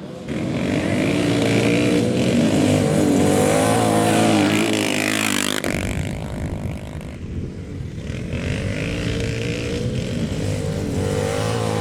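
Café racer motorcycle engines running hard on a dirt track, their pitch rising and falling with the throttle. The sound changes abruptly about six seconds in.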